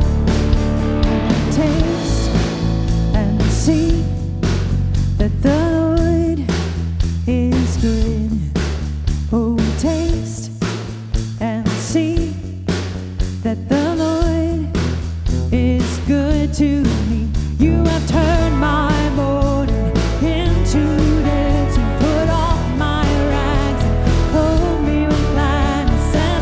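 Worship band playing a song with a steady drum beat, guitar and a singing voice.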